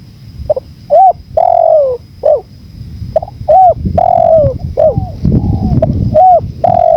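Spotted dove cooing: three phrases of short, arched coos, each phrase ending on a longer, falling note, over a low rumble of wind.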